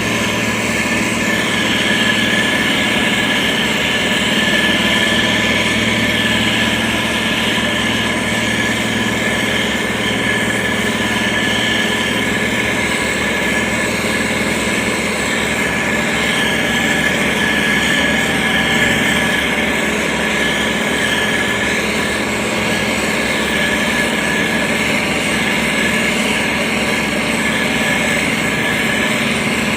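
Diesel engine of a SANY STG190C-8S motor grader running steadily, with a steady high whine over the engine note.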